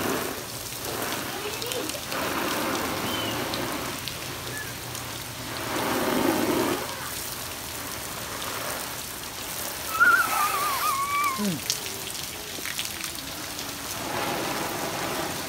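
Steady rain falling on a concrete driveway, an even hiss of drops throughout. About ten seconds in comes a brief, high, wavering call.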